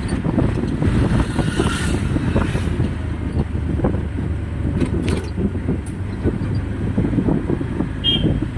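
Rumble of a moving road vehicle with wind buffeting the microphone, a dense low noise that rises and falls without letting up.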